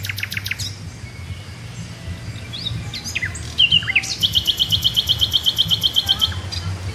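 Small birds singing in the trees: a trill at the start and scattered short chirps, then a fast run of repeated high notes, about ten a second, for around two and a half seconds from about halfway in. A steady low hum sits underneath.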